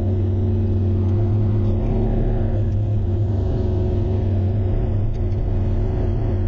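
Bobcat E35i mini excavator's diesel engine running steadily at a constant speed, a low hum with no sudden sounds.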